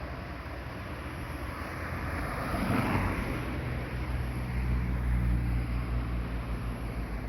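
Engine of a small bus running, with a broad swell of noise about three seconds in, then a stronger, steady low engine drone.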